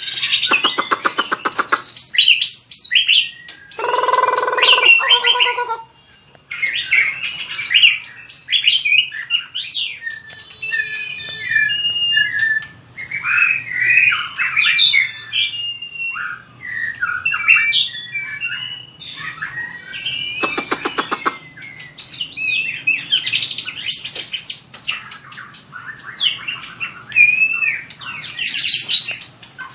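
White-rumped shama singing a varied competitive song of quick whistled and fluting phrases. A rapid rattling trill comes near the start and again about two-thirds of the way through, with a harsh buzzy call around four seconds in.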